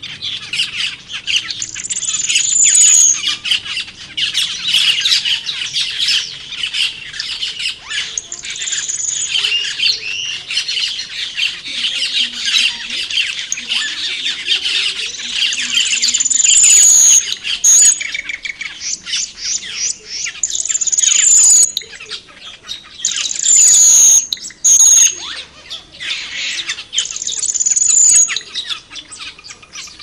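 A flock of cucak keling birds chattering and squawking without a break, with loud, high whistled notes breaking through every few seconds.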